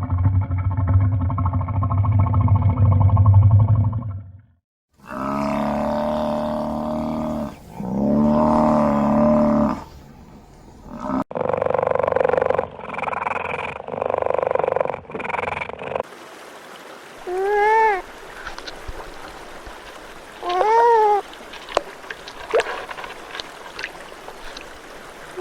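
A string of different wild animal calls, one after another: a low, steady growl for the first few seconds, then a few pitched calls that bend in pitch, then a noisier stretch, and near the end a few short calls that rise and fall in pitch over a faint hiss.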